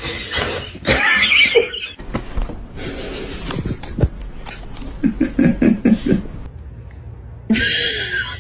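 A person laughing in a run of short bursts, among other short mixed sounds, with a brief hiss-like noise near the end.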